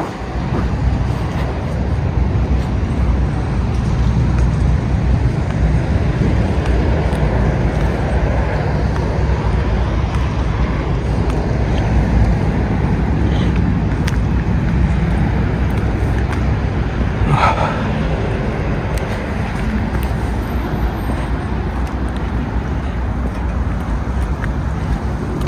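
Steady low rumble of motor vehicles, with a brief higher-pitched squeak about 17 seconds in.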